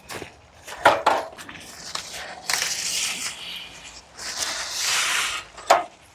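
Bird netting being pulled over a leafy tree, rustling and crackling against the branches and leaves in two longer stretches, with a few sharp clicks and snaps.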